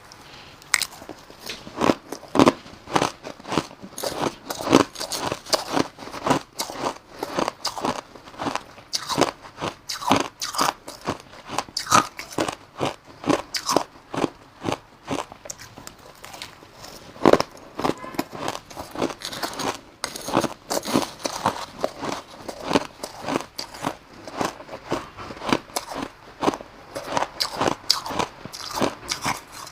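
Close-up biting and chewing of crushed ice: a steady run of sharp, irregular crunches, several a second.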